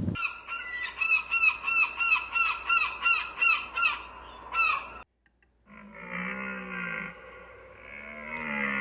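Animal calls: a quick run of short calls, about four a second, each dropping in pitch at its end. After a sudden break, two longer, lower, drawn-out calls follow.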